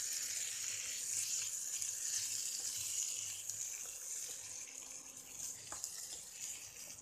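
Aubergine masala sizzling in oil in a nonstick pan while a wooden spatula stirs and mashes it, with a steady hiss that eases off in the second half and a sharp tap near the end. The sabzi is being bhuna, fried down and mashed in its oil.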